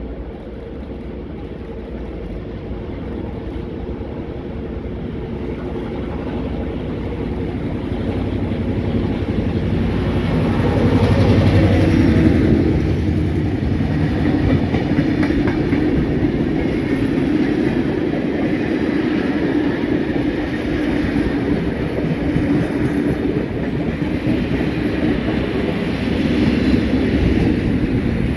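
Heritage passenger train passing close by: it grows steadily louder as it approaches, loudest about eleven seconds in as the head of the train goes by, then the wheels rumble and clatter over the rails as the carriages pass. Steam locomotive 5917 comes by near the end.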